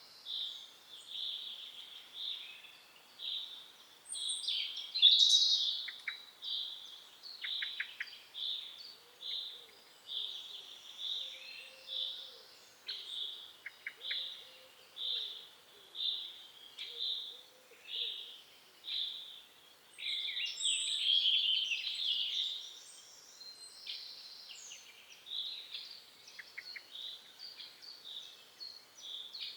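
Short, high peeping calls repeated steadily, about two a second, from a calling animal. A louder burst of bird song breaks in about five seconds in and again around twenty seconds in.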